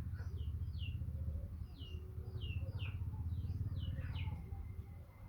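Small birds chirping, short high notes that fall in pitch, about two a second, over a steady low rumble.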